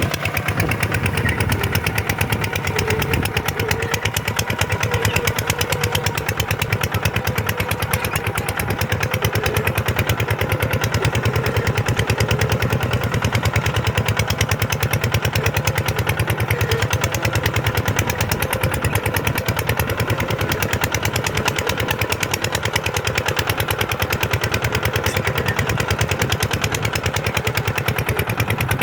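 Kubota tractor's diesel engine running steadily, with a fast, even firing beat.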